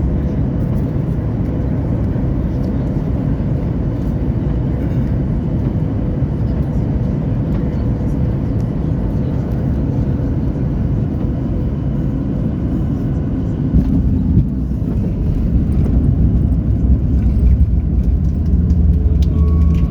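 Boeing 737 cabin noise: a steady low rumble of engines and airflow with a faint steady tone, growing louder and deeper about two-thirds of the way through.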